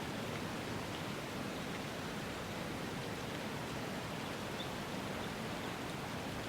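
Steady, even rushing noise with no distinct events: an unbroken ambient bed.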